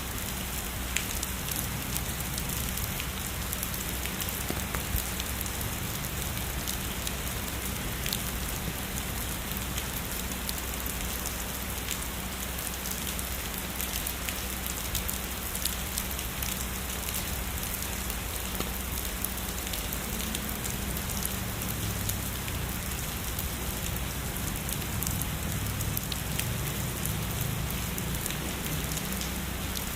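Heavy rain falling steadily, a dense even hiss with many individual drops ticking through it. A low rumble comes and goes in the second half.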